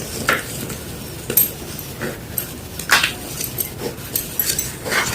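Gym chalk ball being crunched, a series of short sharp crunches at irregular intervals, about seven in all.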